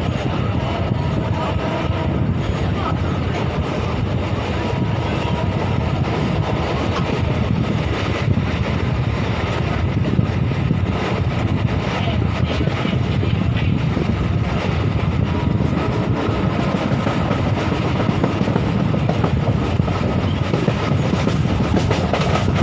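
Steady running noise of a passenger train in motion, heard from inside the moving coach: a constant rumble and rattle of the wheels on the rails.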